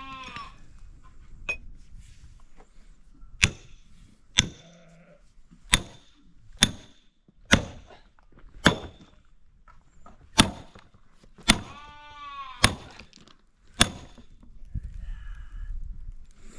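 An axe chopping firewood: about ten sharp blows, roughly a second apart. Livestock bleat once at the start and again about twelve seconds in.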